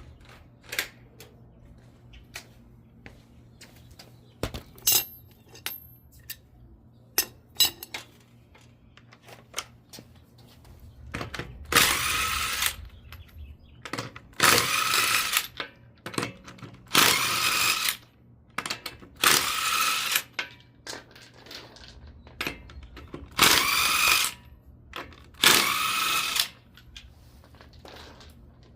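Power impact wrench run in six short bursts of about a second each, spinning the lug nuts off a wheel. Light metallic clicks and clinks of tools and parts come before them, in the first ten seconds.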